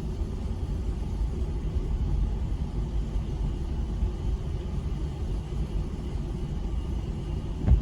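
A dense chorus of many frogs calling at once, a steady low-pitched din, with a brief knock near the end.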